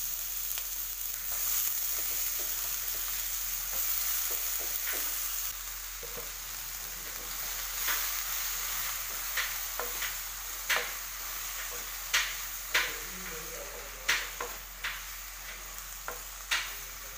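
Cut brinjal frying in hot oil in a clay pot: a steady sizzle while it is stirred with a spatula. In the second half the spatula knocks sharply against the pot several times.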